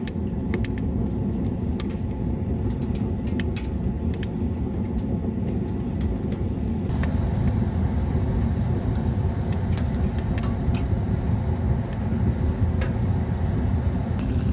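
Wood fire crackling, scattered sharp pops over a steady low rumble.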